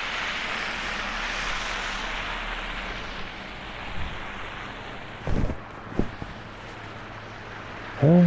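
A steady rushing noise, like passing traffic or an aircraft, that fades away over the first four seconds, then two short knocks about five and six seconds in.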